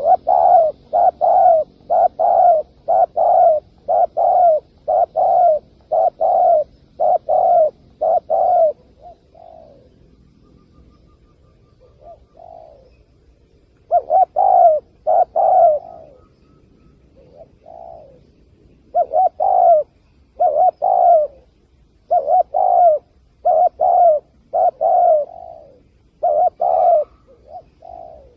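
Spotted dove cooing loudly in rapid, evenly spaced series of coos, pausing twice before starting again.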